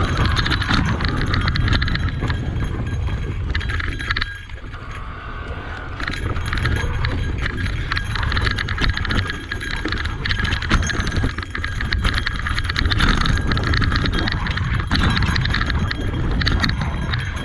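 Electric mountain bike ridden over a rough dirt trail: tyres crunching over rocks and the bike clattering and rattling in quick irregular clicks over a steady low rumble, easing briefly about four seconds in.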